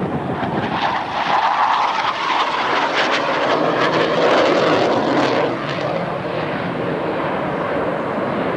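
Jet noise from Blue Angels F/A-18 Hornets flying past, growing louder with a pitch that falls as they go by, then easing to a steady lower level about five and a half seconds in.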